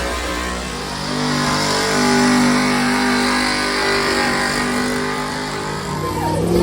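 Truck engine running hard at high revs under load, as in a truck pull, its pitch dipping and climbing again near the end.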